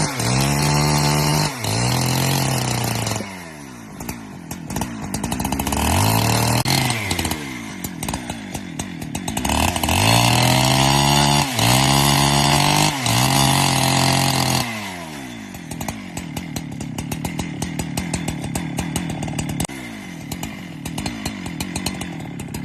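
Chainsaw engine revving up and down in several bursts, then running more steadily at a lower pitch from about 15 seconds in.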